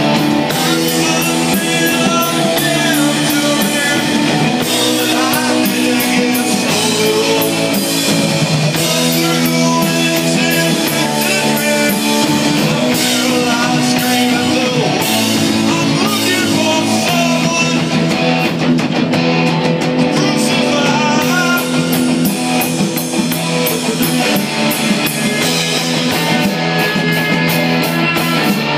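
Live metal band playing loud rock: electric guitars and a drum kit in full swing.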